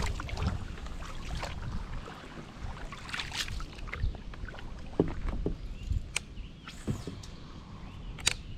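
Scattered clicks and knocks over a low wind rumble on the microphone.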